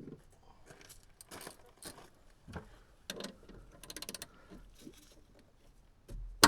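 Scattered metal clicks and knocks as a tight part is worked loose on the excavator, probably the hydraulic tank breather cap. There is a quick run of about eight clicks a little past the middle and a loud knock at the very end.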